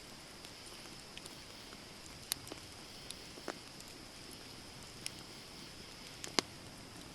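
Wood fire burning with a steady low hiss and sparse sharp crackles and pops, the loudest pop about six seconds in.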